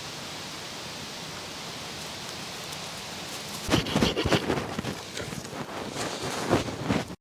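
A steady hiss, then about halfway in a run of irregular rustles, crunches and scrapes from hands-on outdoor work with sand and ground cover.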